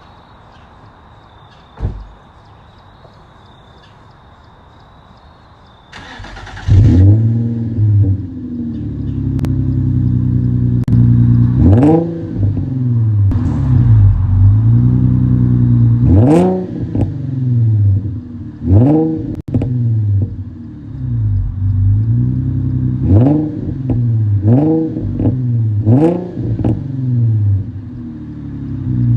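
Infiniti G35's 3.5-litre V6 with the muffler deleted, heard through the open exhaust. It cranks and starts about six seconds in, then is blipped and revved repeatedly, the pitch rising and falling with each rev. There is a single thump about two seconds in, before the start.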